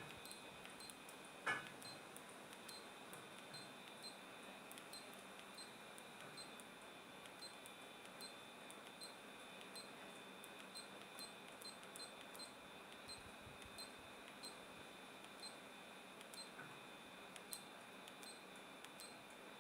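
Near silence: a faint steady hiss with light, regularly recurring ticks and one louder click about a second and a half in.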